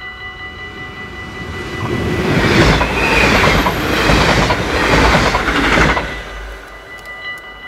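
A double-deck electric passenger train passes at speed, its wheels clattering over the rails in rhythmic swells. It is loudest from about two to six seconds in. Before and after it, the level-crossing bell rings steadily in regular pulses.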